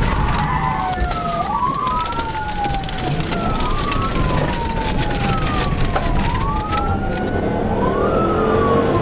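Police car siren wailing, each cycle a quick rise in pitch followed by a slower fall, repeating about every two seconds, over steady road and engine noise.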